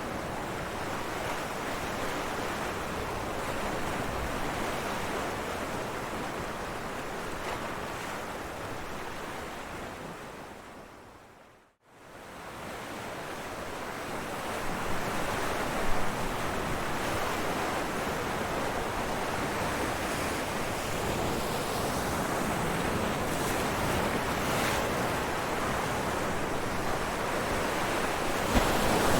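Ocean surf washing against rocks, a steady rushing wash of water. About halfway through it fades out to near silence, then swells back in over a few seconds.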